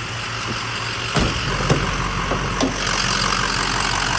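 Freshly rebuilt Ford Powerstroke diesel idling after its first drive. A few sharp knocks and clicks sound in the middle, and from about three seconds in the engine noise grows louder and brighter.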